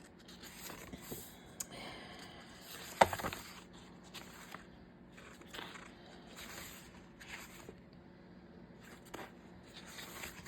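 Pages of a sticker book being turned and handled: soft paper rustles and scrapes, with one sharper tap about three seconds in.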